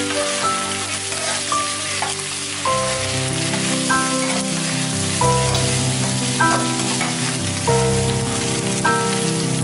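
Ground beef and vegetables sizzling as they fry in a pan and are stirred, a steady crackling hiss, under background music of held notes and chords.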